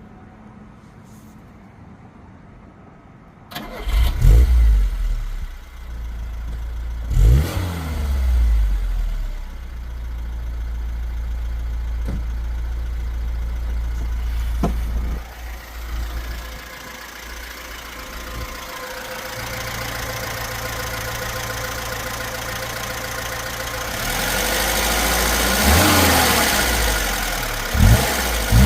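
Lada 21063's 1.3-litre carburetted four-cylinder engine starting about three and a half seconds in, revved twice, then idling steadily. Near the end it runs faster with a few more throttle blips.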